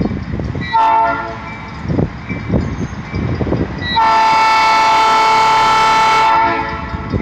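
LTEX diesel locomotive's air horn: a short blast about a second in, then a long loud blast from about four to six and a half seconds, over the low rumble and knocking of the passing train.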